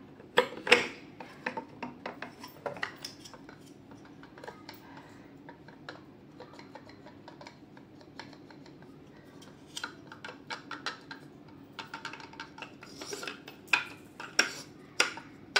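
Metal and plastic vacuum-cleaner motor parts being handled and fitted together: scattered clinks and clicks, with a burst of louder ones at the start and more clustered near the end.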